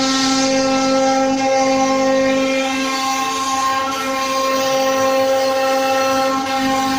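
CNC router spindle motor running at a steady speed, a continuous high whine that holds one pitch.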